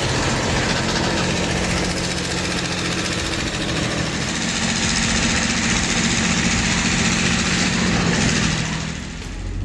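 Heavy vehicle engine running steadily under load, a low engine note under a loud hiss.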